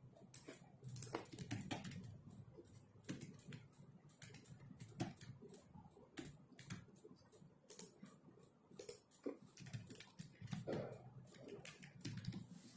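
Computer keyboard typing: quiet, irregular key clicks in quick runs with short pauses, over a faint low room hum.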